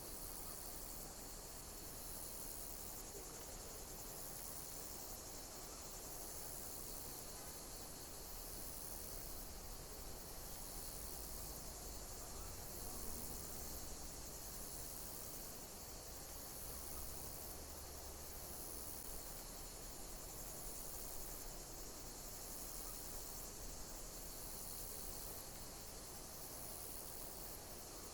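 Insects chirping in a steady high-pitched chorus that pulses in a regular repeating pattern, over a faint background hiss.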